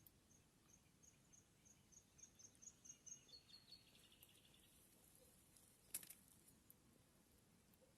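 Near silence: faint outdoor ambience with a row of faint high chirps that quicken over the first few seconds, then a short trill, and a single sharp click about six seconds in.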